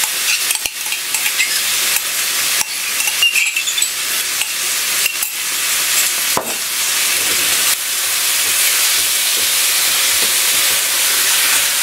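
Vegetables and tomato paste sizzling in a hot wok, with a spatula stirring and scraping against the pan. The scraping clicks come mostly in the first several seconds; after that it is a steady sizzle.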